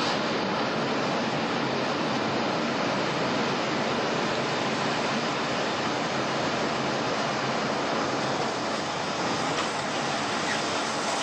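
A tornado's wind blowing over the house: a loud, steady rush of noise with no break.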